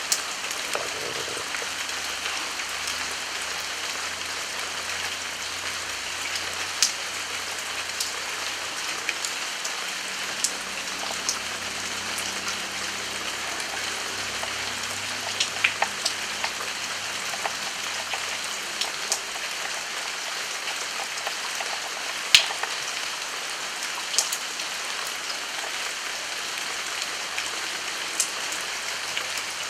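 Steady rain with a constant hiss, with individual drops ticking sharply here and there; the loudest drop hits about two-thirds of the way through.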